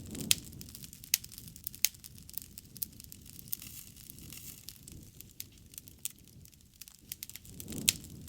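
Wood fire burning, with sharp crackles and pops at irregular intervals over a soft low rumble of flame that swells briefly near the start and again near the end.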